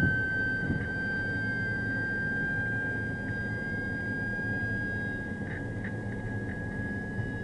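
Steady low rumble of a stopped, idling patrol car as heard from its dash camera, with a constant high-pitched electronic tone over it and a few faint clicks.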